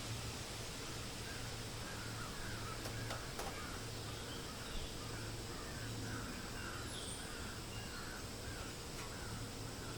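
A bird calling over and over, a dozen or so short calls at about one and a half a second, over a steady hiss and a low hum.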